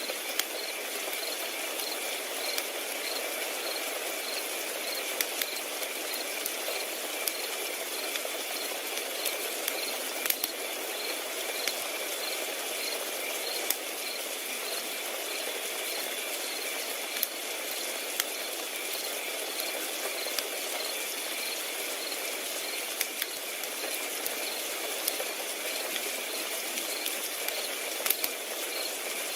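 Crickets chirping in a steady, regular rhythm, over the soft hiss of a wood fire crackling with sharp, irregular pops.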